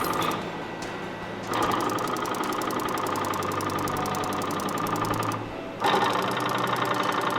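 A machine on an electric kettle production line running with a rapid, even clatter and a steady whine. It starts about a second and a half in, stops briefly about five and a half seconds in, and starts again.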